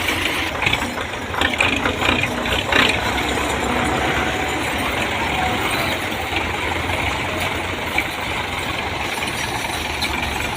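Belarus 510 tractor's diesel engine running steadily, with a few sharp knocks or rattles between one and three seconds in.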